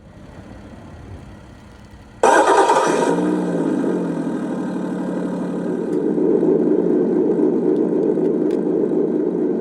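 An RC drift car's engine-sound unit playing a simulated car engine start: it cuts in suddenly and loudly about two seconds in, the pitch wavers, then settles into a steady idle.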